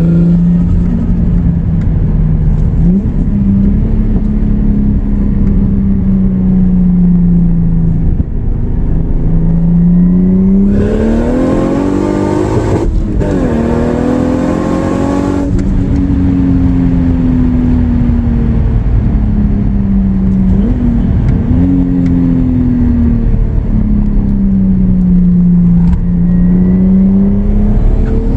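Big-turbo 2JZ straight-six in a Lexus IS300 running at light throttle, then accelerating hard for about five seconds from around ten seconds in. Its pitch climbs, drops briefly, then climbs again. A loud turbo hiss accompanies the pull, and the engine then settles back to a steadier, lower note.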